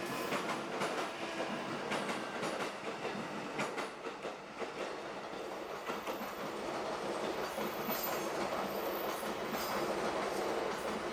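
Tobu 8000 series electric train running, with a steady rumble and motor hum and the wheels clicking repeatedly over rail joints.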